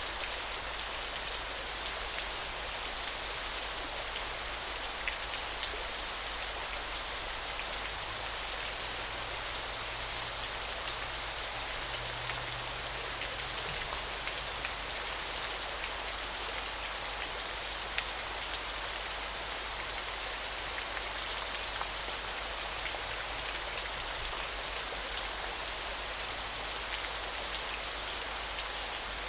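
A river's water running in a steady rushing hiss. A thin, high tone comes and goes three times in stretches of about two seconds, and a louder high buzz sets in near the end.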